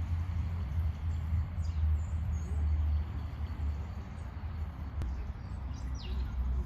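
Steady low rumble with a few brief, high, falling bird chirps, a couple about two seconds in and another near the end, and a single sharp click about five seconds in.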